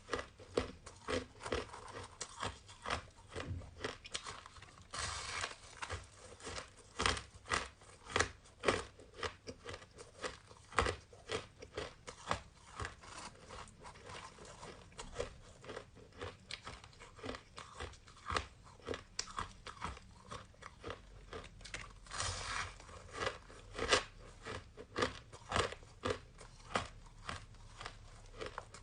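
Close-up crunching and chewing of frozen flavoured shaved ice: a rapid string of sharp cracks as mouthfuls are bitten and ground, with two short denser crunchy stretches, about five seconds in and again about two thirds of the way through.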